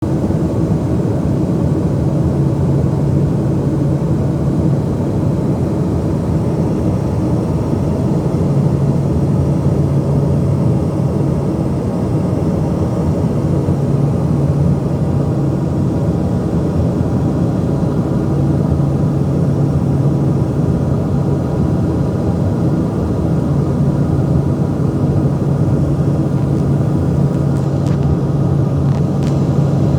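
Steady cabin noise of an aeroplane in flight: an even drone of engines and airflow with a constant low hum.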